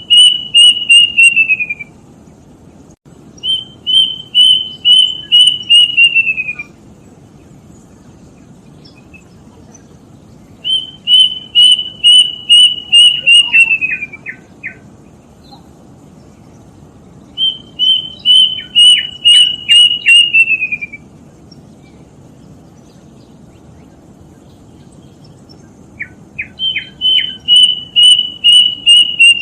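Kedasih (plaintive cuckoo) song: phrases of about seven to nine clear whistled notes at one high pitch, the last notes sliding downward. The phrases repeat about every seven seconds, some ending with a few lower, shorter notes.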